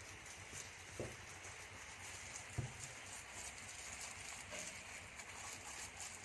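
Two dull knocks about a second and a half apart, with a few lighter clicks, as a jar is filled and pressed with fermenting snail mixture. A steady high hiss runs underneath.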